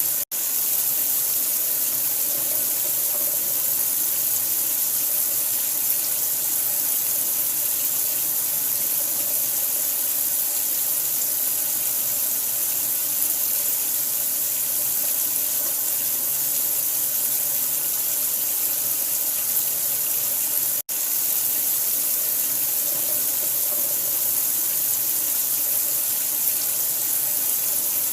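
Steady, even rush of running water, broken by two momentary dropouts, one right at the start and one about 21 seconds in.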